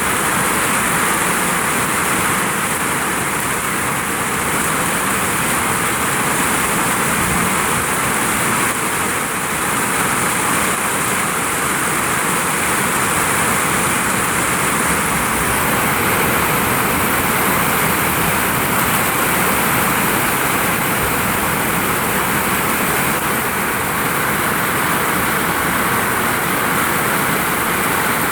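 Heavy rain falling steadily on a vinyl roof in strong wind, an even, unbroken hiss.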